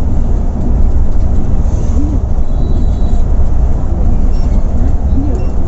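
Steady low rumble of a moving Volvo B8R coach heard from inside the cabin: diesel engine and road noise at cruising speed.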